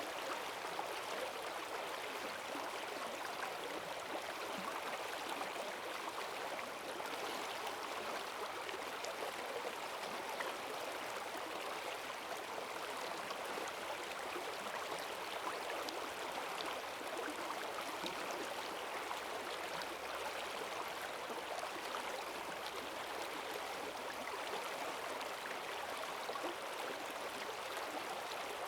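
Forest stream in spate after heavy rain, its water rushing and splashing in a steady wash with no letup.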